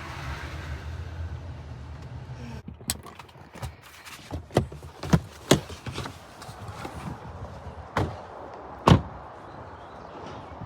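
Car engine running with a low hum, then switched off a little over two seconds in. After that comes a string of sharp knocks and clunks, the loudest near the end.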